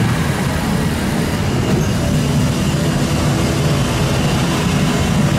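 Twin-turbo Mustang drag car's engine idling, loud and steady.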